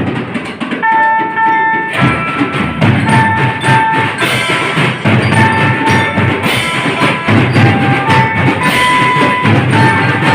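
School marching drum band playing: snare and bass drums beating while a bell lyra (glockenspiel) plays a melody over them. Near the start the drums stop for about a second and a half while one bell note rings, then the beat comes back in.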